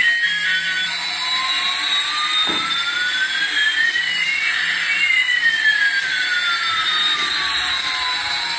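Electronic jet-engine sound effect: a steady high hiss with two thin tones gliding in opposite directions, one rising and one falling, crossing about halfway through, and a soft knock about two and a half seconds in.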